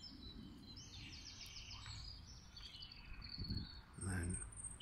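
Small birds chirping and trilling in quick high runs of notes over a steady low rumble, with a brief low sound about four seconds in.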